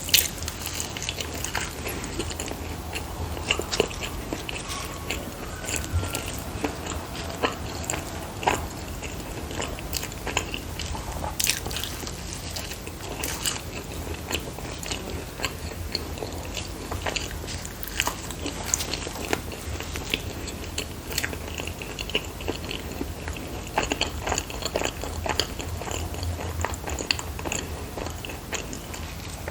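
Close-miked eating sounds: filled dumplings being bitten and chewed, with frequent wet mouth clicks and smacks.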